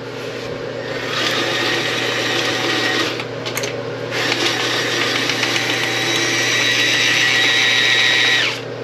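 Milwaukee M12 battery-powered auto-feed toilet auger running, its motor whining steadily as it spins and feeds its 6-foot cable down the toilet drain. It eases off for about a second around three seconds in, then runs on until it stops near the end, having fed the full 6 feet without reaching the clog.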